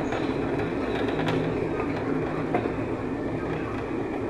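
Passenger train running along the track, a steady rumble of wheels on rails heard from inside the carriage, with a few faint clicks.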